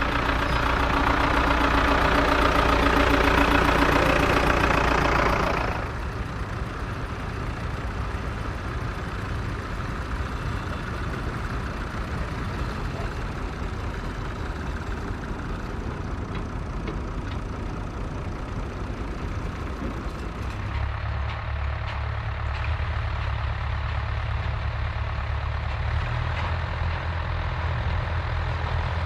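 Vintage tractor engines running. The sound changes abruptly about six seconds in and again about twenty-one seconds in, and the first stretch is the loudest.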